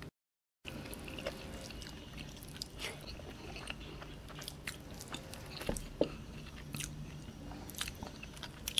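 Close-up chewing of rice and kerutuk curry eaten by hand, with scattered wet mouth clicks and smacks. The sound drops out completely for about half a second near the start.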